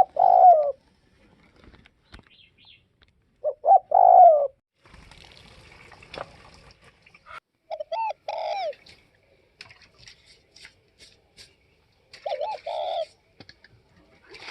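Spotted dove cooing: four short phrases of two or three low notes, about four seconds apart.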